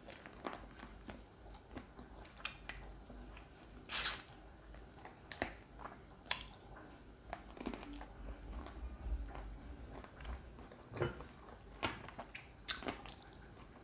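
Close-miked chewing and biting of fried chicken wing: scattered wet mouth clicks and smacks, with one sharper click about four seconds in.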